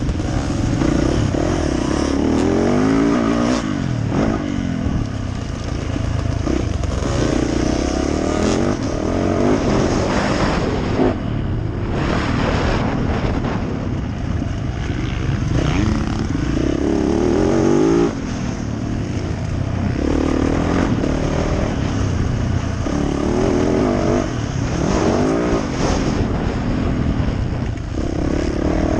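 Yamaha YZ450F four-stroke single-cylinder dirt bike engine revving up and down over and over, its pitch rising and falling every second or two under hard throttle, with a steady rush of noise underneath.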